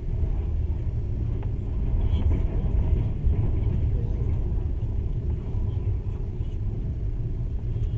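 Running noise of a moving passenger train: a steady low rumble, heard from inside the carriage.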